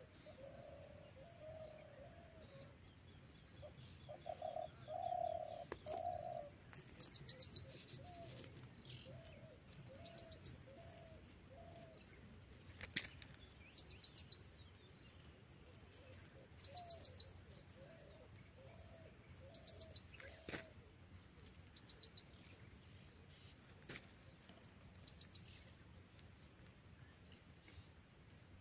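Wild bird calling, a short high trilled call repeated about every three seconds, with lower pitched calls in the first few seconds over a faint steady high hum.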